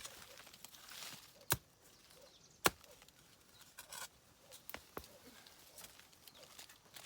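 A few sharp knocks or snaps with light rustling between them. The two loudest come about a second apart, followed by two lighter ones close together.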